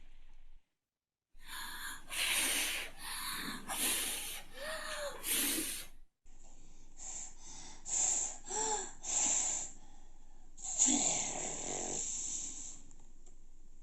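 A series of short, noisy, breath-like sound effects from a book trailer: five quick puffs, then, after a short break, three more and one longer one.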